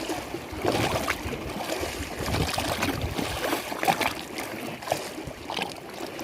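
Lake water lapping and splashing in small, irregular surges, as wavelets slap against the shore.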